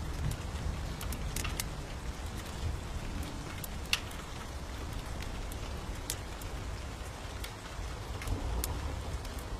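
Fireplace fire crackling, with sharp irregular pops scattered throughout, over a steady hiss of rain and a low rumble.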